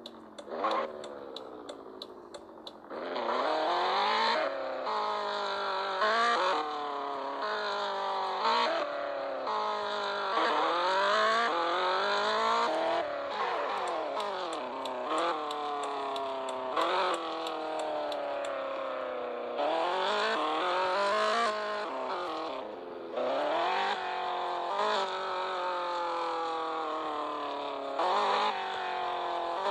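Toyota Supra's 2JZ straight-six engine running under acceleration. Its pitch climbs again and again, with short breaks and falls in between, as the car pulls through the gears. A rapid ticking is heard near the start and again around the middle.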